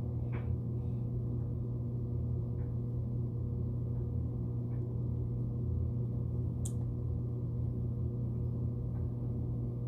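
A steady low hum throughout, with a few faint small clicks spread through it.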